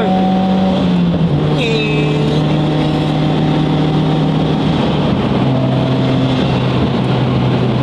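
Car engine droning steadily under loud road and wind noise inside the cabin at highway speed. The engine note steps down slightly in pitch a little over a second in and again around five seconds.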